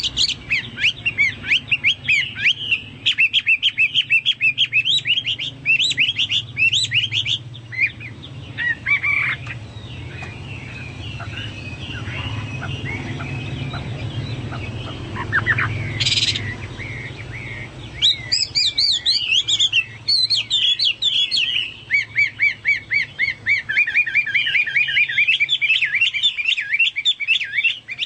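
Hwamei (Chinese hwamei songbird) singing in fast, loud runs of rapidly repeated whistled notes, the song likened to a cucak Papua or cucak mas. It breaks off for several seconds midway, then resumes with more rapid runs.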